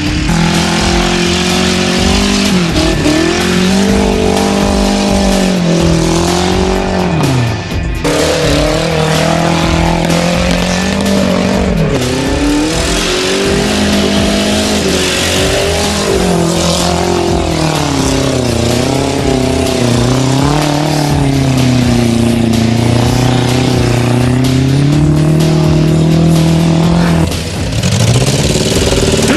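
A car engine is revved hard again and again, its pitch rising and falling as the car slides through loose dirt. The sound changes abruptly about 8 seconds in and again near the end.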